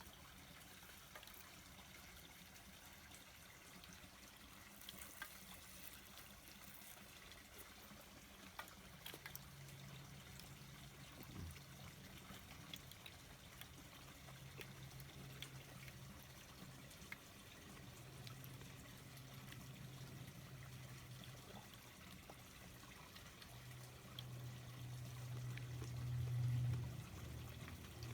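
Faint trickling water with a few small clicks. A low steady hum comes and goes from about nine seconds in and grows louder near the end.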